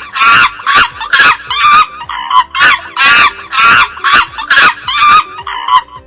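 Chimpanzee calling: a quick run of loud, shrill hoots and screeches, about two a second, rising and falling in pitch.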